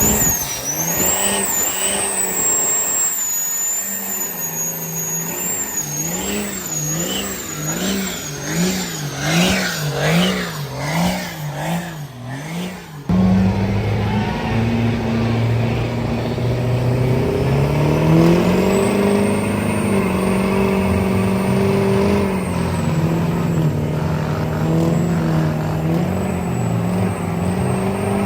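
Truck engine revved up and down over and over, each rise and fall matched by a high whine. After a sudden cut about halfway, an engine runs steadily, climbs in pitch a few seconds later and holds there with the whine.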